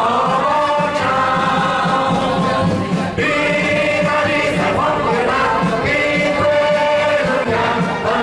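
Music with a group of voices singing, holding long notes over a steady beat.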